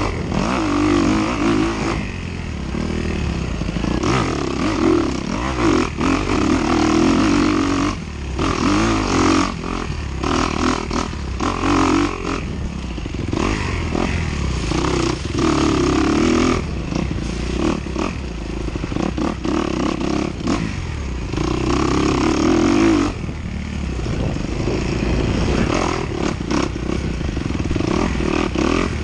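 Dirt bike engine revving up and easing off in turn every second or two as the rider works the throttle through a cross-country course, heard close from on the bike.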